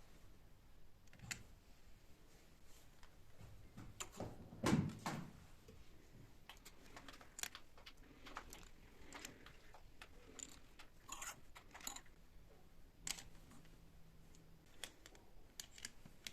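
Objects being handled in a small room: scattered light clicks and taps, with a louder knock and clatter about four to five seconds in.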